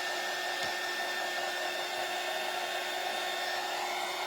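Handheld hot-air blower, hair-dryer type, running steadily with a fixed whine over its rush of air, drying a fresh coat of Mod Podge; it cuts off suddenly at the very end.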